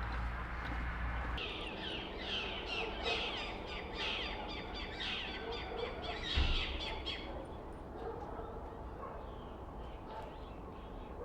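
Birds chirping: a quick run of repeated short calls for several seconds that fades out about two-thirds of the way through, with a single dull thump near the middle.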